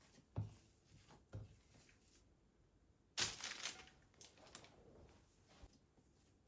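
Quiet handling sounds: two soft thumps, then a brief, loud rustle about three seconds in, followed by a few light clicks.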